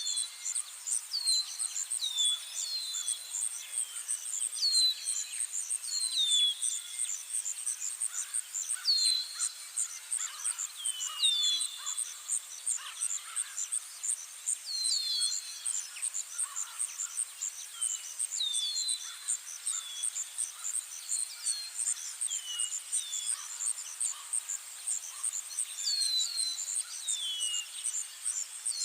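Insects, crickets among them, chirring steadily in a rapid, even, high-pitched pulse, with a bird repeatedly giving short, downward-slurred whistled calls every second or two.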